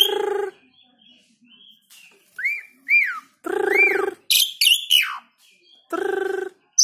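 Asian pied starling (jalak suren) singing: three harsh, buzzy notes, one at the start, one about halfway and one near the end. Between them come clear whistles that rise and fall and a burst of quick, high squeaky chirps.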